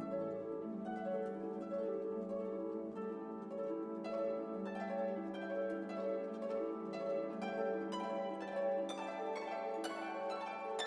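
Background music: gentle orchestral piece with plucked strings, harp-like and pizzicato, over sustained lower notes, the plucked notes growing busier near the end.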